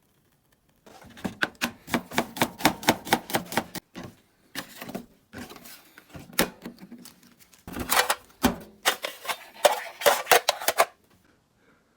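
Knife chopping on a cutting board in quick, even runs of about five strokes a second, stopping and starting several times.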